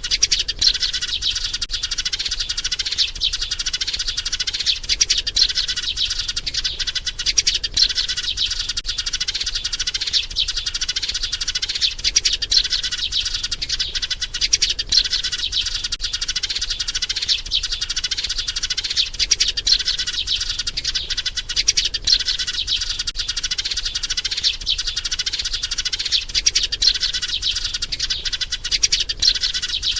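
Sparrow chirping rapidly and without pause, a dense, steady stream of high chirps: the lovelorn call of a sparrow seeking a mate, used as a trapping lure.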